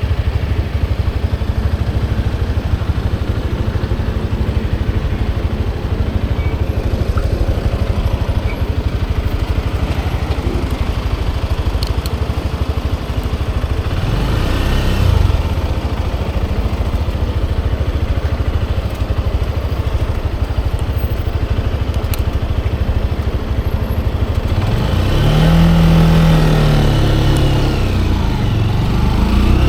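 Motorcycle engine running steadily on the road, its pitch rising and falling briefly about halfway through and then several times near the end as the throttle is opened and eased off.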